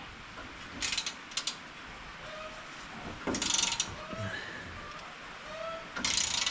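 Ratchet wrench clicking in four short bursts as a bolt is worked loose.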